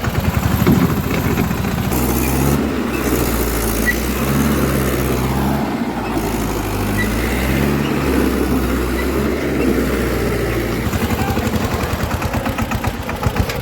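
Heavy diesel engine running steadily with a fast, even firing pulse and a low drone.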